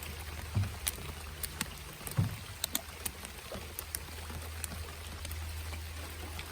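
Heavy rain falling on an open boat: many scattered sharp raindrop taps over an even hiss, with a steady low hum underneath.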